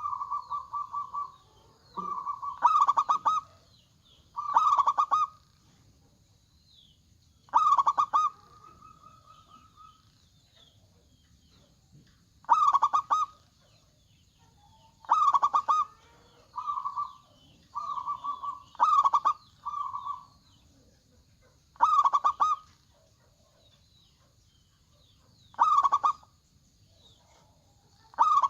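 Zebra dove (perkutut) singing: a loud, rapid, stuttering coo repeated about every two to three seconds, each phrase about a second long. Faint chirps of other small birds sound in the background.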